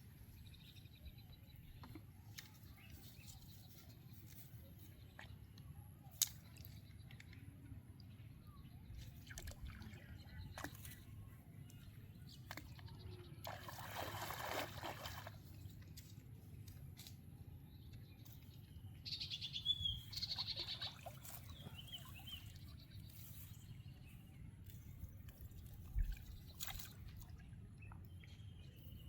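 Faint outdoor waterside ambience: a low steady rumble with light trickling and scattered small clicks, a brief rush of noise about 14 seconds in, and a few short bird chirps around 19 to 21 seconds in.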